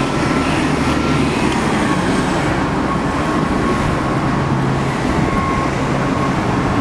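Steady background rumble and hiss of road traffic with a low, even hum.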